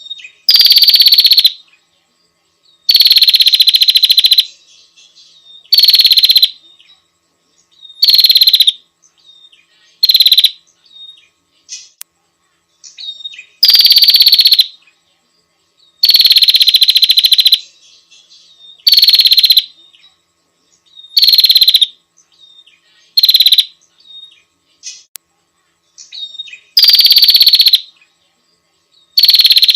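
A prinia repeating a loud, buzzy, rapidly pulsing call about a dozen times, each lasting one to two seconds, with short pauses and faint chips between.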